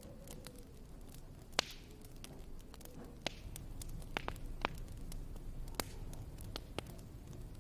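Wood fire crackling in a fireplace: a steady low rumble with scattered sharp pops, the loudest about a second and a half in.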